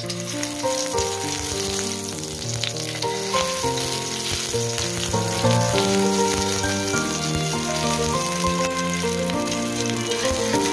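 Ginger slices sizzling in hot oil in a frying pan, a steady crackling hiss, with background music playing a melody over it.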